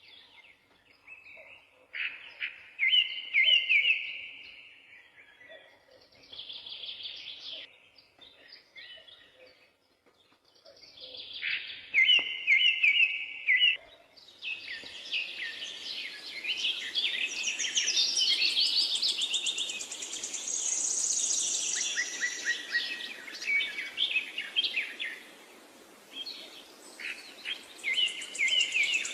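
Songbirds singing: separate short whistled phrases at first, then, from about halfway, a denser chorus of overlapping songs and high trills over a steady faint background hiss.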